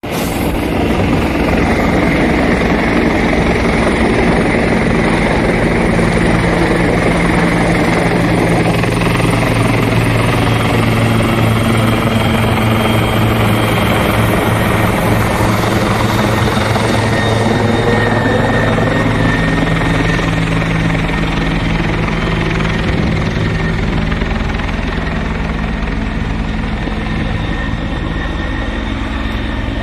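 Police helicopter flying overhead, its rotor and engine running steadily and loudly, growing slightly quieter over the last several seconds.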